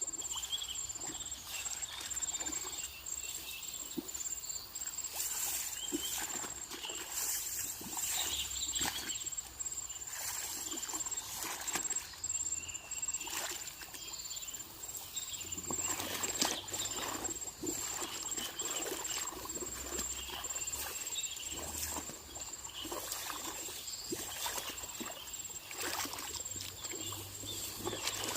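Irregular wet splashes and sloshes of waterlogged paddy mud being worked by hand, over a steady high-pitched insect drone.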